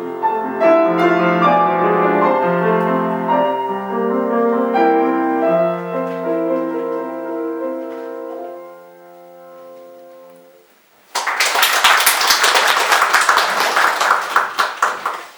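Piano playing the closing bars of a song's accompaniment, its final chord ringing out and fading. About eleven seconds in, the audience breaks into applause.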